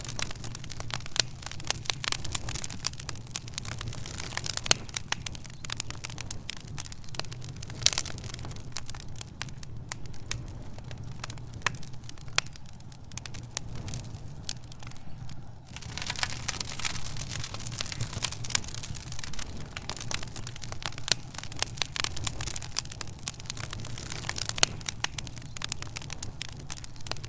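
Wood fire crackling in a fireplace: dense snaps and pops over a steady low rumble. The crackling thins out for a few seconds in the middle, then picks up again abruptly.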